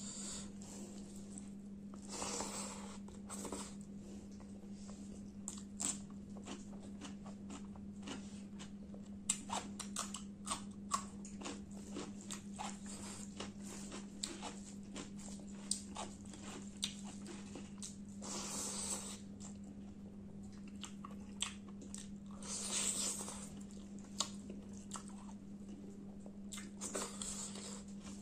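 Close-miked eating sounds of a person eating chicken curry and rice by hand: many wet chewing clicks and smacks, with a few longer noisy spells about 2, 18, 23 and 27 seconds in. A steady low hum runs underneath.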